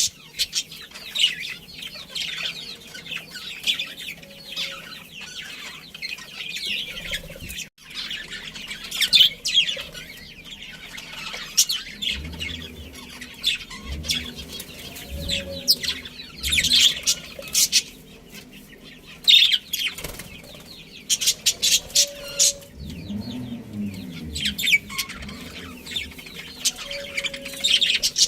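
A colony of budgerigars chirping and chattering, many short rapid calls overlapping, with wing flapping among them.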